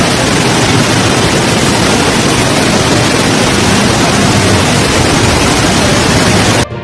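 Loud, steady rushing of water, as of a heavy downpour and floodwater, that cuts off suddenly near the end.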